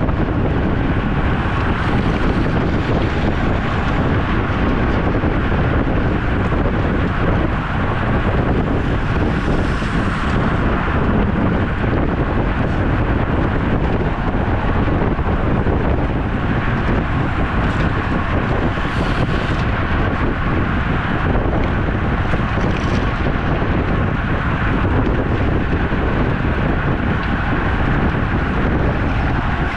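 Steady wind noise rushing over the microphone of a camera riding along on a road bike, with a few brief louder hissy gusts.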